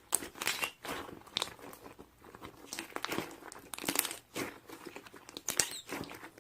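Slime being squeezed and worked by hand, crackling and crinkling with irregular small pops.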